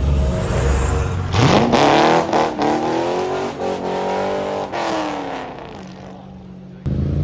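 A sports car's engine rumbling, then revved hard about a second and a half in as the car launches away: a steeply rising note that keeps climbing, then drops and fades as the car pulls away.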